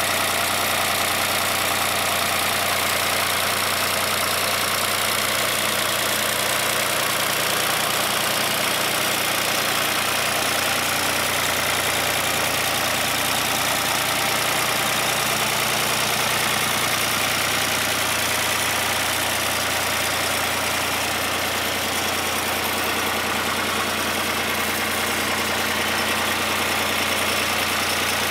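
Long 510 tractor's 45 hp diesel engine idling steadily.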